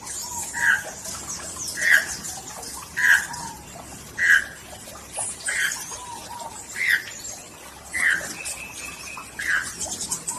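Birds calling: one bird repeats a short, even call about every second and a quarter, while higher, thinner chirps and trills of other birds run behind it.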